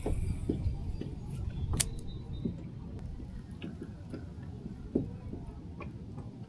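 Low wind rumble on the microphone, with a few scattered light clicks and taps from the fishing gear and kayak.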